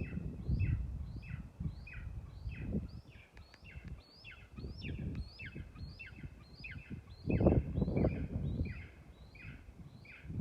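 Eagles calling in a rapid, unbroken series of short notes, about two a second, each dropping in pitch. Beneath them a low rumble swells and fades several times, loudest about seven and a half seconds in.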